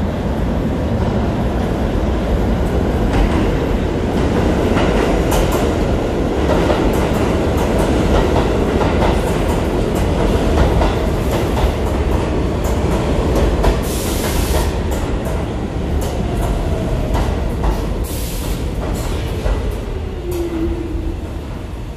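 New York City subway A train running into an underground station: a steady rumble with wheels clicking over rail joints and two short bursts of hiss. Near the end a falling whine sounds as the train slows.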